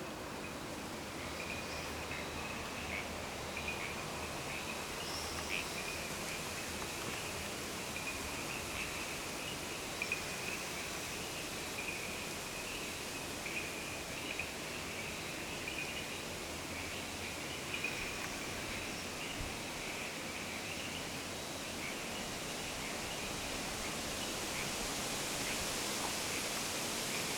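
Outdoor nature ambience: a steady rushing hiss with a continuous, flickering high-pitched chirping running through it, and a few brief faint clicks.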